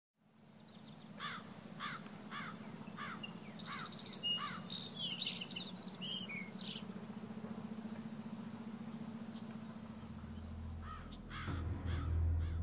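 Birds calling outdoors: a run of repeated falling calls about two a second, then a burst of quicker, higher chirps, over a steady low hum. Near the end a low rumble swells in.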